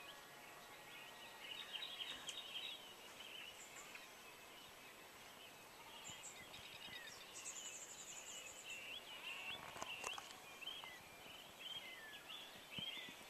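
Faint birdsong: many small birds chirping and twittering, with a quick high trill about seven seconds in.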